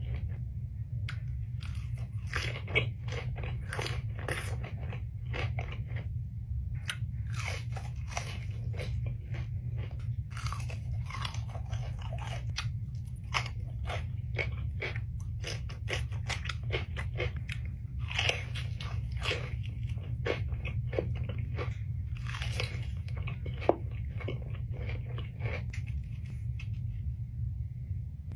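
Close-miked eating: crunchy bites and chewing, a dense run of short crackling crunches with a few sharper, louder bites, over a steady low hum.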